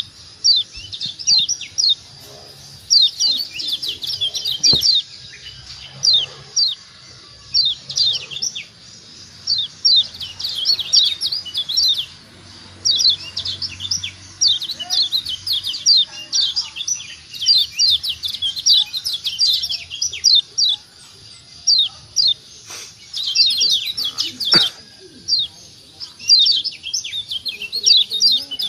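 Kecial kuning white-eye (Zosterops) chattering in fast runs of short, high, falling chirps, each burst lasting a second or two and repeated after short pauses. A faint steady high whine lies underneath.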